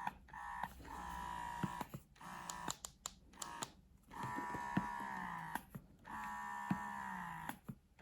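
Bellababy wearable breast pump's motor running through its suction cycles: a whir, each stroke lasting up to about a second and a half and sliding slightly down in pitch, with short pauses between strokes. A few light clicks are heard among them.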